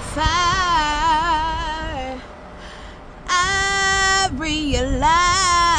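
A single voice singing unaccompanied, holding long notes with vibrato on the words "fire" and "I".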